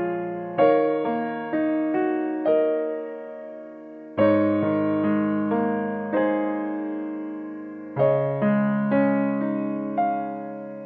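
Soft background piano music: slow chords and single notes, each struck and left to fade, with new chords about half a second, four seconds and eight seconds in.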